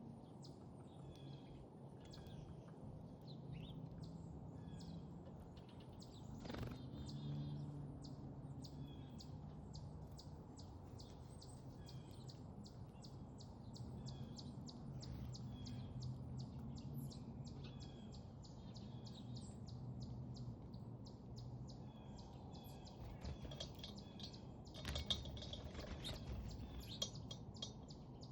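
Small backyard songbirds chirping and calling in many short, quick notes, over a steady low rumble of background noise.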